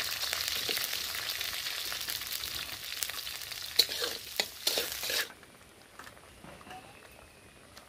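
Hot oil sizzling in a kadai as chopped onions fry and are stirred with a metal spatula, with a few sharp scrapes and clicks against the pan. The sizzle cuts off suddenly about five seconds in, leaving only a faint background.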